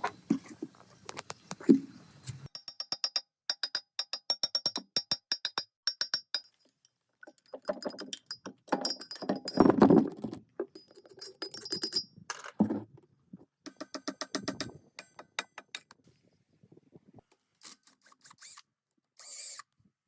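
Hand tools working on metal parts: a rapid run of sharp metallic clicks and taps, some with a high ringing note, with a rougher scraping stretch in the middle and a few scattered clicks near the end.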